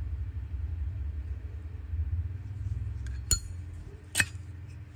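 Two sharp metallic clicks from a brass Zippo lighter being handled, the first with a brief high ringing, over a low steady rumble.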